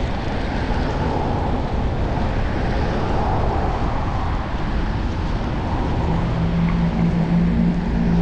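Wind and road noise rushing over a chest-mounted GoPro while riding a bicycle through city traffic. A steady low hum joins about six seconds in.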